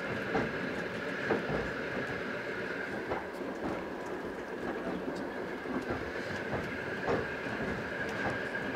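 Passenger train running, heard from inside an old railway carriage. The wheels and carriage make a steady rumble with a steady high whine over it, and sharp clicks come now and then at irregular intervals.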